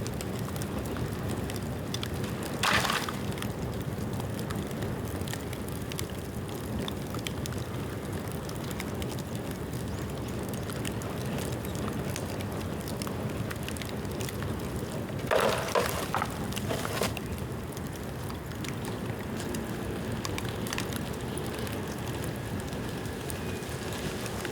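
Bamboo bonfire burning fiercely, with a steady rushing noise and dense crackling from the rain-wet bamboo. A louder burst of crackle comes about three seconds in, and a cluster of louder bursts follows around fifteen to seventeen seconds.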